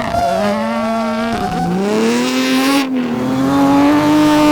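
Rally car engine pulling hard under acceleration, its pitch dipping and then climbing through the gears, with a brief break in the sound near three seconds as it shifts up, then running steadily high.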